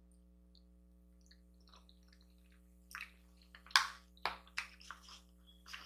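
Close-miked chewing of a mouthful of fettuccine Alfredo. It is nearly silent at first, then from about three seconds in comes a run of short, wet mouth clicks and smacks.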